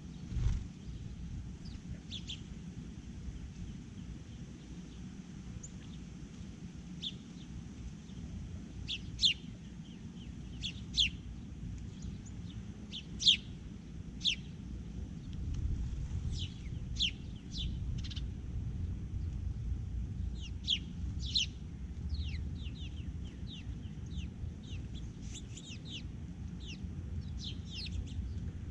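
Small birds chirping at a feeder: many short, quick chirps, sparse at first and coming more often after several seconds, over a steady low rumble. A single thump sounds right at the start.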